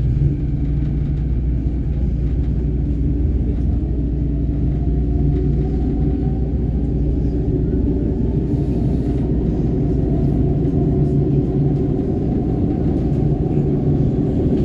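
Canada Line SkyTrain car running on the track: a steady low rumble with a faint motor whine that rises slightly in pitch a few seconds in as the train picks up speed.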